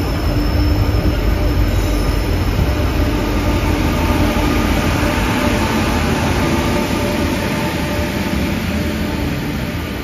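Train running alongside the platform: a steady rumble of wheels on rails with a faint steady hum. The deep rumble eases after about four seconds and the whole sound slowly fades.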